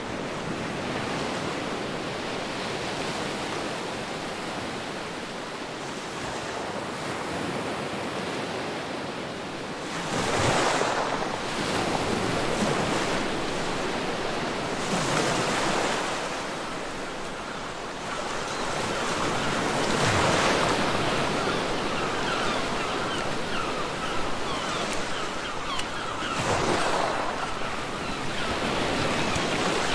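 Ocean waves breaking on a beach: a steady wash of surf with a louder surge of breaking water about every five seconds, four times in all, and some wind.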